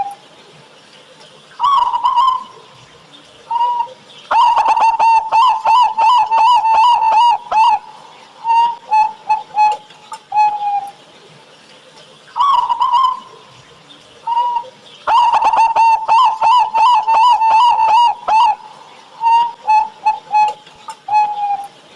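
Zebra dove (perkutut) singing its cooing song twice over: a lead-in coo, a fast run of about a dozen rapid coos, then a few spaced single coos. The voice is one the uploader calls thick-toned (suara tebel), the kind used as a lure to set other perkutut singing.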